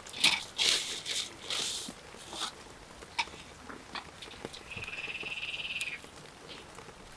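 Several short, sharp rustling noises in the first two seconds. Then, about five seconds in, a frog gives one high, rapidly pulsed trill lasting just over a second.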